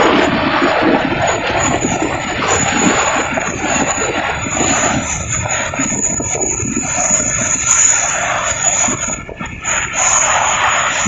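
Jet aircraft engine noise: a loud, steady rush with a thin high whine over it, easing briefly about nine seconds in.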